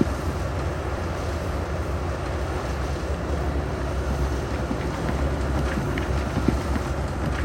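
Heavy construction equipment's diesel engine running steadily, with wind noise on the microphone and a few faint knocks.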